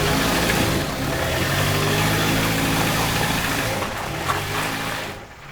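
A vehicle engine idling steadily under a continuous hiss of rain, with the sound fading out near the end.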